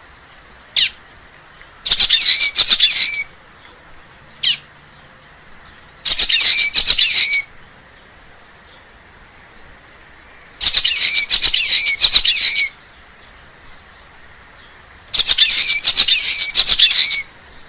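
Common waxbill singing: four short, buzzy song phrases about four seconds apart, with two brief single call notes in the first gaps.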